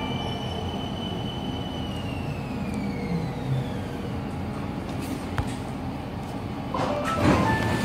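BTS Skytrain car's motor whine gliding down in pitch as the train brakes to a stop at the platform, over the steady rumble of the car. A short burst of knocks and clatter follows near the end.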